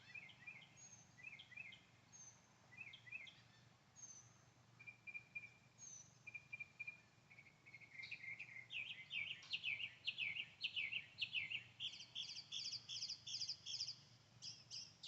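Small birds calling and singing: short repeated chirps, a briefly held whistled note, then from about halfway a louder, rapid run of repeated notes.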